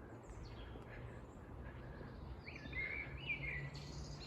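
Small birds chirping, with short calls that are clearest in the second half, over a low, steady background rumble.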